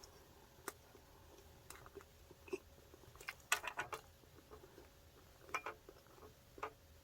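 Close-miked chewing of a fried chicken burger: scattered soft mouth clicks, with a short run of crunchy crackles a little past the middle and a few more near the end.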